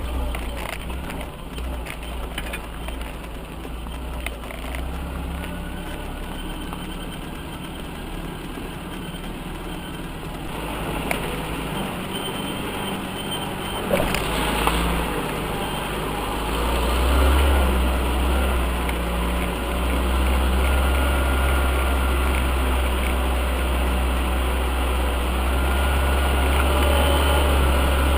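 UAZ off-road vehicle's engine running steadily, with scattered clicks in the first few seconds and a single sharp knock about halfway through. From a little after that the engine gets louder and works harder.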